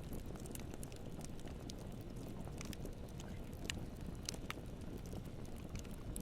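Campfire burning: a steady low rush of flame with scattered sharp crackles and pops of burning wood, the sharpest pair a little past halfway.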